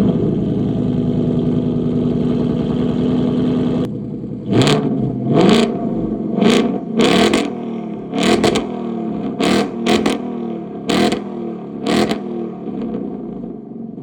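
2024 Ford Mustang GT's 5.0-litre V8 with a Corsa Xtreme exhaust and H-pipe, holding a steady high idle just after start-up. After about four seconds it settles lower and is revved in about ten quick throttle blips, each rising sharply and falling back to idle.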